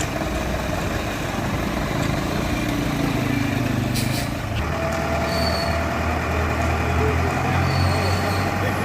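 Tractor diesel engine running steadily, its pitch shifting about halfway through.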